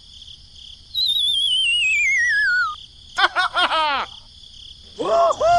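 Cartoon-style whistle sound effect: a wavering whistle slides down in pitch, then a quick run of short chirps follows, and more arched chirping calls start near the end.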